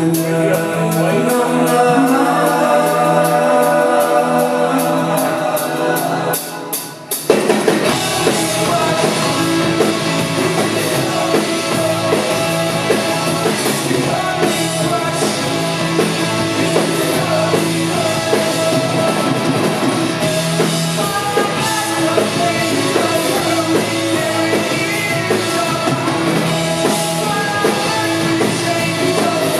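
Rock band playing live with a singer. The first seven seconds are a lighter passage with no bass, then the full band with drums and bass comes in suddenly and plays on steadily.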